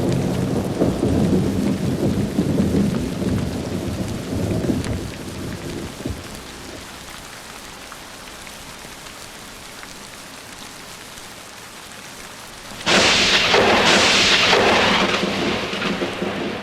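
Thunderstorm with steady rain: a low thunder rumble dies away over the first several seconds, leaving the rain hiss alone. About thirteen seconds in, a sudden loud, close thunderclap breaks in two cracks and rumbles on.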